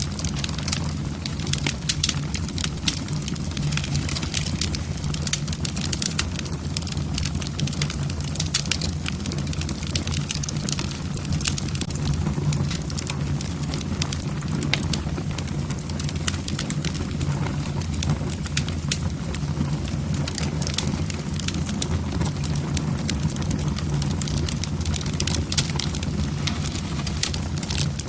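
Wood fire burning in a fireplace, logs crackling with frequent irregular sharp pops over a steady low rumble.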